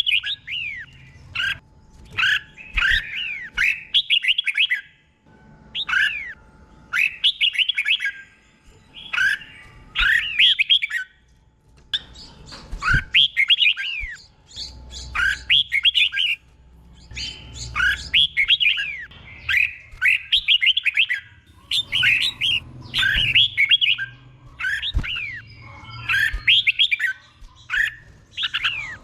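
Red-whiskered bulbul singing its doubled-phrase song: short whistled phrases of quick rising and falling notes, one every second or two.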